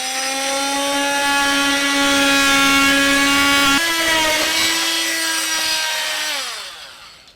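Electric power saw cutting into a timber beam: the motor runs held down under load, speeds up with a jump in pitch about halfway through as the cut frees, then winds down and stops near the end.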